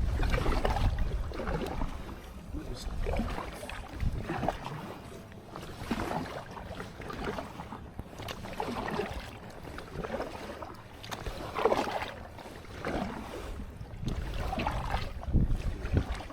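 Water splashing and sloshing against a kayak in repeated, irregular strokes about once a second or so, with wind rumbling on the microphone at the start.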